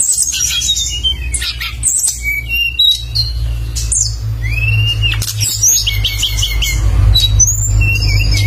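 A songbird singing in full voice: a busy, varied run of sharp chirps, whistled sliding notes and fast trills, with a steady low hum underneath.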